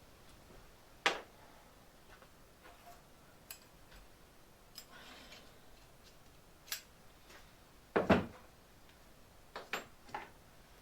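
Scattered knocks and clinks as hand tools are picked up and set down while a 17 mm spanner is searched for. The loudest is a double knock about eight seconds in, followed by a few quick clicks.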